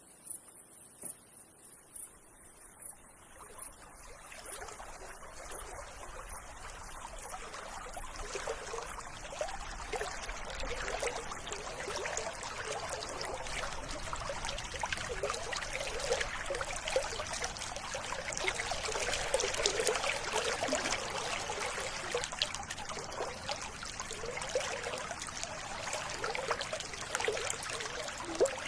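River water babbling and trickling over stones, fading in after the first few seconds and growing steadily louder. At the start a faint, rapid high-pitched pulsing call fades away.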